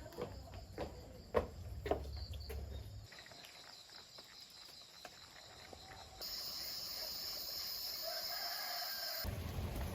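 A rooster crowing in the second half, after a few scattered knocks and clicks near the start.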